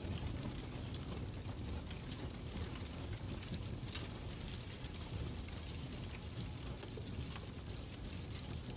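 Fireplace ambience: a steady low rumble of burning wood with many faint, irregular crackles.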